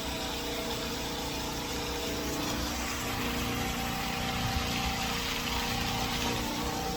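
Steady mechanical hum with several constant tones over a low rumble, like a running motor or pump.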